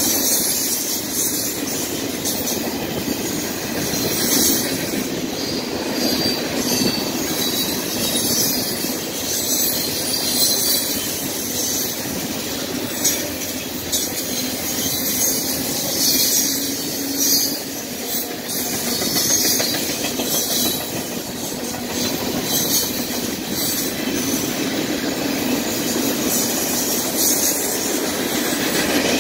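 Freight cars rolling steadily past close by: wheels running on the rails with clicking over the joints and intermittent high-pitched wheel squeal.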